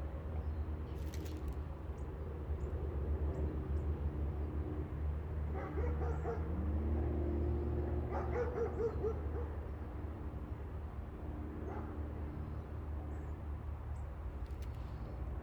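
Low animal calls over a steady low hum: one call rises in pitch about six seconds in and is held, and a quick wavering call follows a couple of seconds later.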